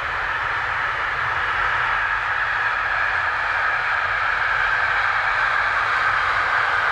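Container wagons of a long freight train rolling past: a steady rushing wheel-on-rail noise that grows slowly louder.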